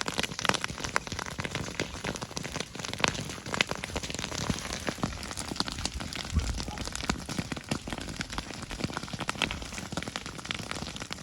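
Grass fire burning, a dense crackling with louder pops and snaps scattered through it: green grass popping as it catches from the burning dry grass.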